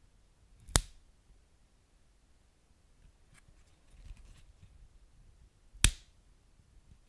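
Wood fire crackling: two loud sharp pops, about a second in and near the end, over faint low burning and a few small ticks.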